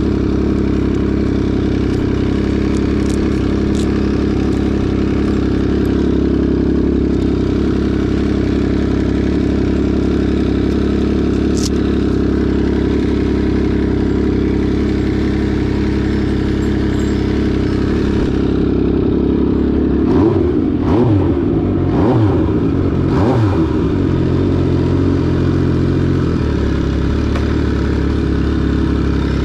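MV Agusta Brutale 800RR three-cylinder engine through an SC Project exhaust, running steadily at idle. About two-thirds of the way through it is revved in a few quick throttle blips that rise and fall, then it settles back to idle.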